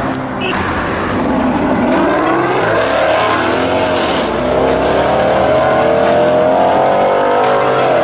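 Sports car engine accelerating hard, its note climbing steadily for several seconds, then dropping sharply near the end.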